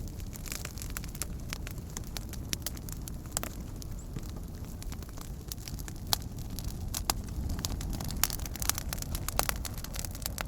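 Wood campfire burning, with many sharp crackles and pops scattered irregularly over a steady low rumble of the flames.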